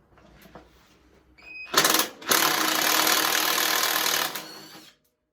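Impact wrench hammering a bolt loose: a short burst about two seconds in, then a longer run of about two seconds that tails off and stops.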